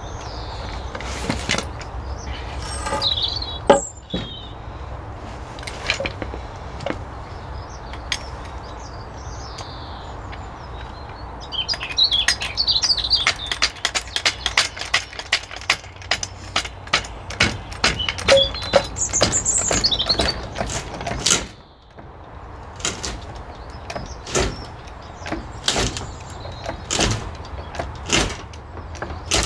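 Repeated knocks, clicks and rattles as a greenhouse frame and its wooden packing blocks are shifted and adjusted, with a dense run of rattling about halfway through.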